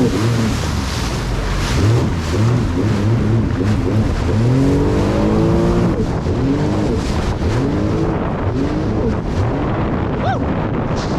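Jet ski engine revving up and down again and again, its pitch rising and falling in quick swells, over rushing wind and water noise.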